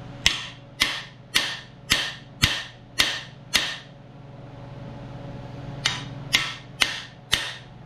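A hammer striking the driver bar of a collet-type cam bearing installer, driving a new camshaft bearing into a 350 small-block Chevy block. There are seven sharp, ringing metal blows about two per second, a pause of about two seconds, then four more.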